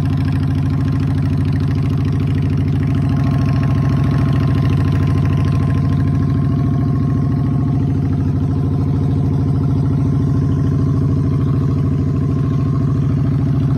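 Honda Shadow Spirit 750's V-twin engine idling steadily.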